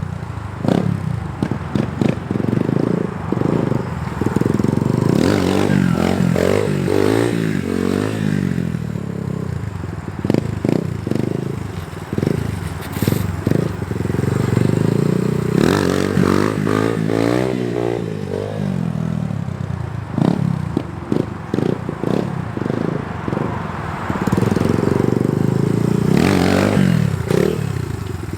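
Small dirt bike engine being ridden, its revs surging up and falling back in about three long throttle pulls as the front wheel is lifted for wheelies, with many short knocks and clatters between.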